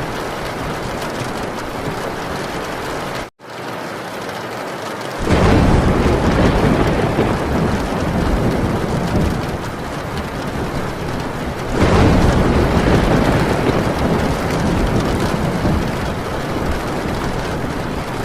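Heavy rain drumming on a tin roof, with rolling thunder swelling in twice, about five seconds in and again near twelve seconds, each rumble fading over several seconds. The sound cuts out for an instant a little over three seconds in.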